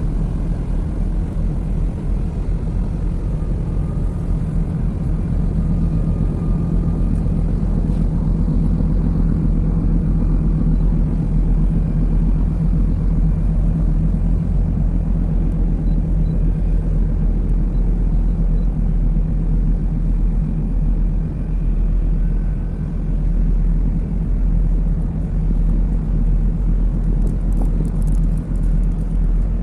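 Steady low rumble and drone of a large dual-fuel container ship's machinery as the ship moves into harbour, with a constant low hum running through it.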